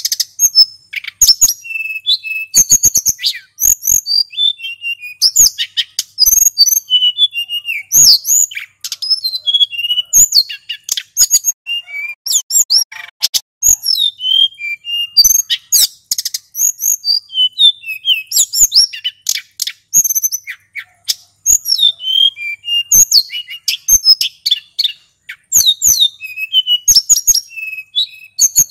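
A male sulingan gunung singing a long, rapid, unbroken song of varied high chirps, trills and quick sliding notes, with sharp ticking notes mixed in.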